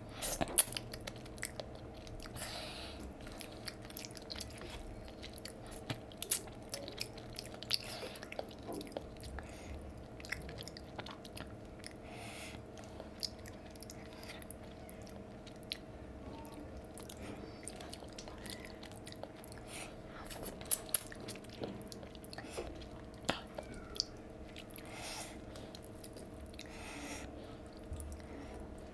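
Close-up chewing and mouth sounds of a person eating rice and fish curry by hand, with many short sharp crunches and smacks scattered throughout.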